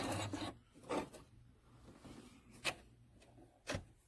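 Handling noises at a sewing machine: a few sharp clicks at uneven intervals, with faint rubbing of fabric and parts between them. No steady motor or stitching rhythm.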